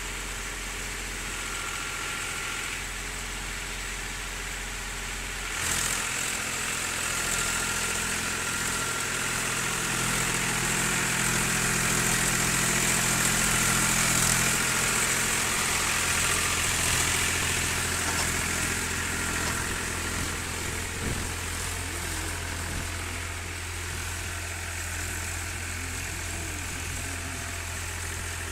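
Powertrac 434 34 hp tractor's diesel engine running. About six seconds in the revs jump and the engine works harder and louder for about ten seconds, then it eases back to a lower, steady speed.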